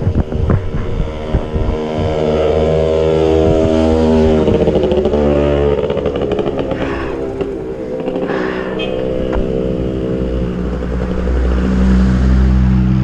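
Motorcycle engines passing close by on the road, their pitch sliding up and down as they go by, with another engine building near the end. A few sharp knocks near the start.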